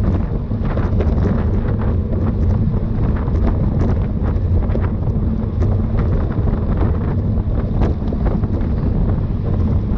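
Wind rushing over the microphone of a road cyclist's camera at racing speed: a loud, steady low rush, with scattered small clicks.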